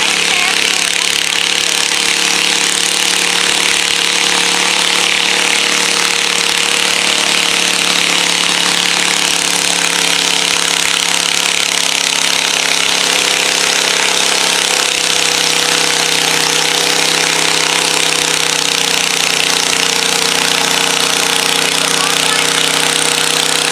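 Pulling garden tractor's engine running hard and loud, a steady rough drone whose pitch sags a little past the middle.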